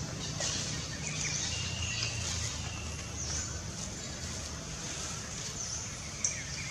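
Birds chirping over forest ambience: short high chirps and quick falling calls repeat every second or so above a steady low rumble, with a single sharp click about six seconds in.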